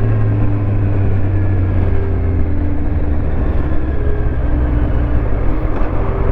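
Kawasaki Z1000 inline-four engine running steadily under way. Its pitch drops slightly about a second in and then holds, over road and wind noise.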